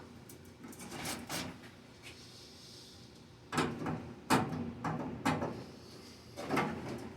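A few irregular knocks and scrapes of objects being handled and moved, the loudest bunched about halfway through and again near the end.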